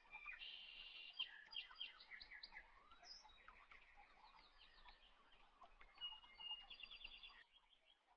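Faint high bird chirps and quick trills, in a cluster from about half a second in and again around six seconds in.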